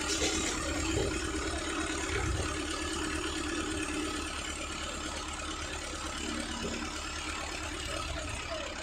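Mahindra Arjun tractor's diesel engine running steadily at low revs.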